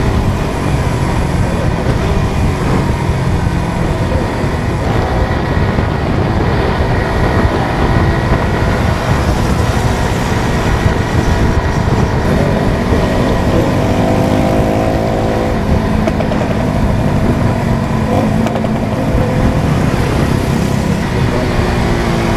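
Suzuki GSX-R150's single-cylinder four-stroke engine running under way, its note climbing and dropping a few times through the middle as the bike accelerates and shifts, over a steady rush of wind noise.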